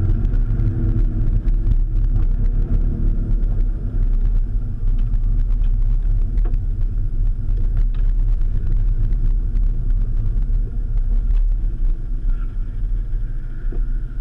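Mitsubishi 3000GT VR-4's twin-turbo V6 heard from inside the cabin as the car slows at low speed. The engine note drops in pitch in the first second and then settles into a steady low rumble.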